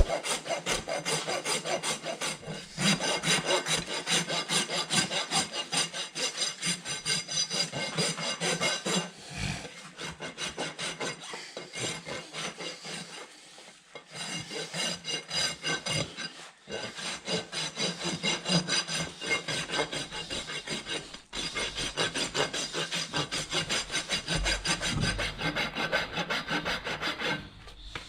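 A farrier's rasp filing a horse's hoof in rapid, rhythmic scraping strokes, with a few short pauses.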